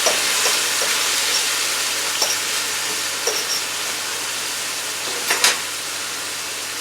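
Cut-up chicken thighs sizzling in hot oil and garlic in a frying pan, a steady hiss that slowly eases, with a few light clicks and knocks of a utensil against the pan, the loudest pair near the end.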